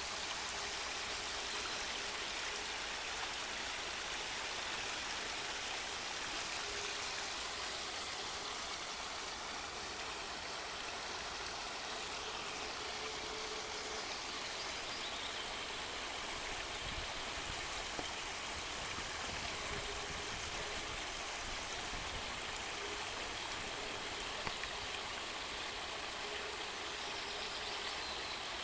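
Small forest stream flowing steadily, its water babbling over stones.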